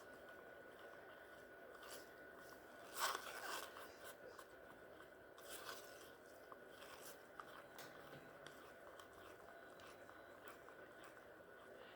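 Faint scraping and light clicking of a stir stick mixing pigmented resin in a plastic mixing cup, with a louder scrape about three seconds in.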